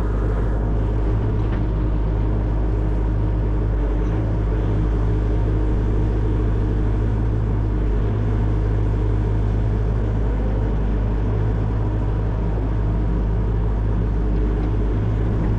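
Excavator's diesel engine running steadily under work, a constant low hum.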